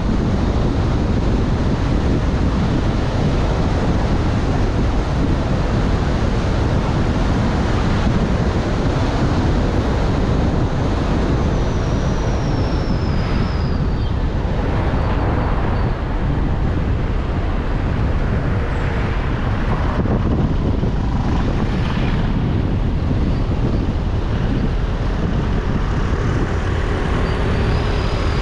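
Steady road and wind noise of a car driving, a dense rush with no let-up. A faint high whistle glides by twice, once around the middle and once near the end.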